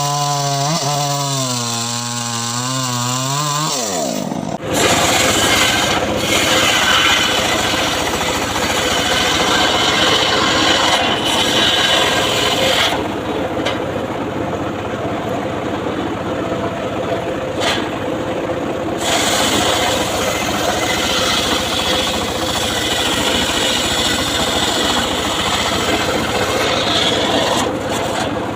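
A power saw cutting mahogany wood. Its motor tone wavers in pitch for a few seconds and drops as the saw bites. Then a loud, steady cutting noise runs on, easing briefly twice.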